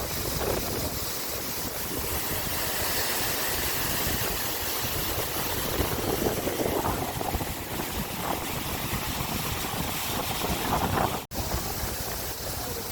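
Steady outdoor rush of wind buffeting the microphone over the wash of sea surf, breaking off for an instant about eleven seconds in.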